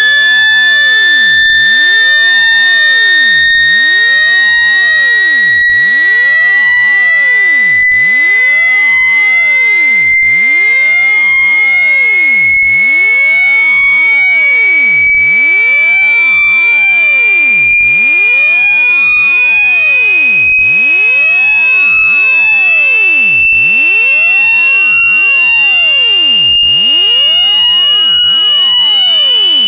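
Synthesized speaker-cleaning tone, the kind played to shake water and dust out of a phone speaker: a loud, buzzy electronic tone with overtones, rising slowly and steadily in pitch.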